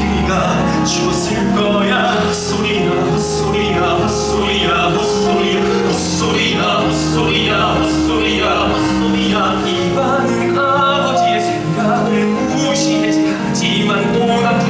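Live musical-theatre song: singing over band accompaniment with a steady beat.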